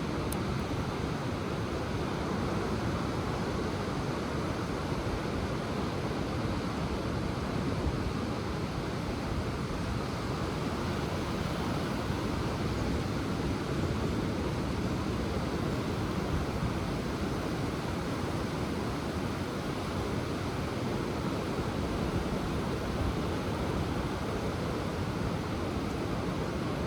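Ocean surf washing continuously on the shore, a steady rush of noise with no single wave standing out.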